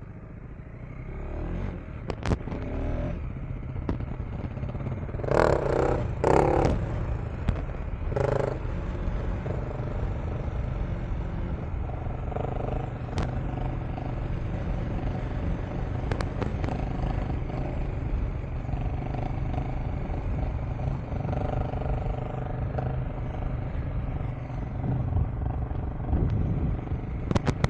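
KTM 390 Enduro R single-cylinder engine running steadily while riding a dirt track, with a few sharp knocks and clatter from the trail.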